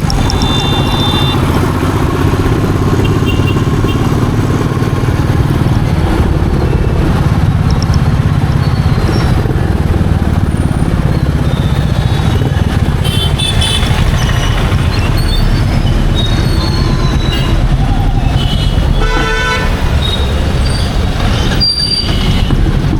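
Royal Enfield Meteor 350's single-cylinder engine and exhaust running steadily under way, with wind and road noise. Vehicle horns honk briefly several times, around the start, the middle and near the end.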